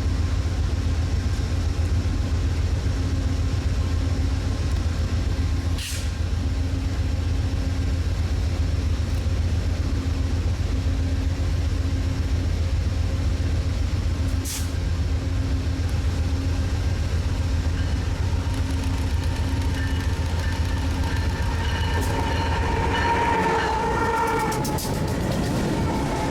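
Passenger train standing at a station, its diesel locomotives running with a steady low rumble and hum. Two short hisses of air come about six and fourteen seconds in. Near the end a higher sound of several tones joins in, like a distant horn.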